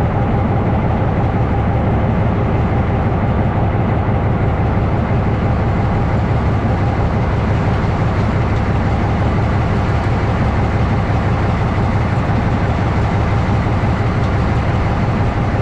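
Narrow-gauge diesel locomotive running steadily, a continuous low engine drone with no change in pitch.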